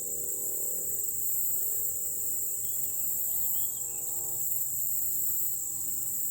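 A steady chorus of singing insects, crickets or similar, making a continuous high-pitched trill. A few faint bird chirps come in a few seconds in.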